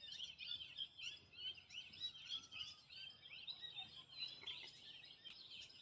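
Faint outdoor birdsong: many small birds chirping continuously in quick, overlapping high-pitched calls.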